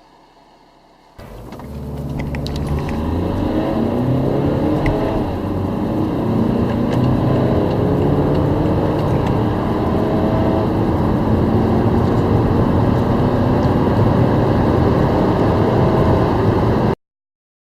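Diesel car engine accelerating hard from a standstill. The pitch climbs, drops back at each gear change, and climbs again several times, then the sound cuts off suddenly near the end.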